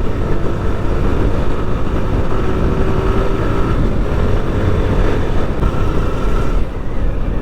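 Motorcycle running at road speed, with steady wind rumble over the rider's microphone.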